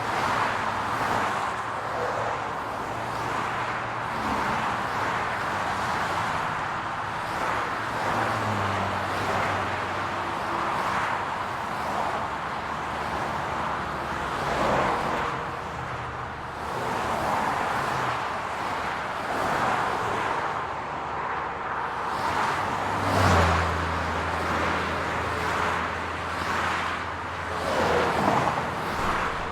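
City street traffic: a steady wash of tyre and road noise with cars passing every few seconds. A low engine hum comes and goes, and holds steadily through the last quarter.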